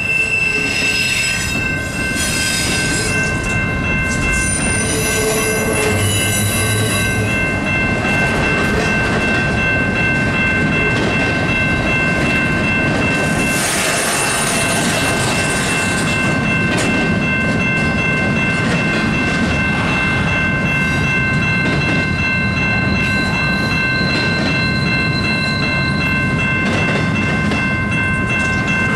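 Cars of a Canadian Pacific double-stack intermodal freight train rolling steadily past, with a continuous rumble and rail clatter. Steady high-pitched tones run over it throughout, and shrill wheel squeal comes in bursts in the first few seconds and again around halfway.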